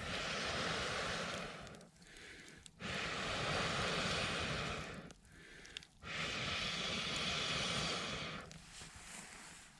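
Three long puffs of air blown into a campfire, each about two seconds with a short pause between, a breathy rushing sound.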